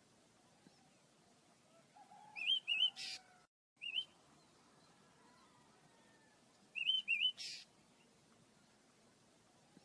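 Small pet birds chirping: short, quick high chirps in groups of two or three, a few times, each group followed by a brief scratchy noise.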